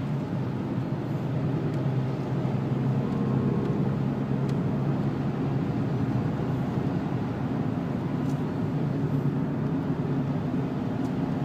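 Inside the cabin of a Renault Laguna wagon with a 2-litre turbo diesel: a steady engine drone under load, with tyre and road noise.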